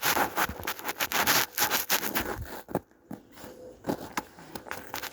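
Footsteps crunching and scuffing on the ground, irregular, busy for about three seconds and then thinning out to a few steps.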